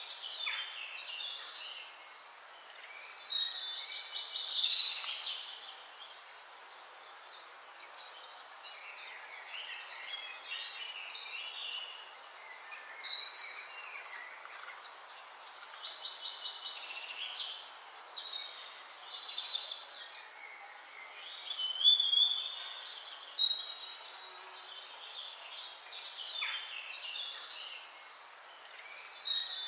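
Several wild birds singing and chirping over a steady background hiss, with louder song phrases breaking out every few seconds.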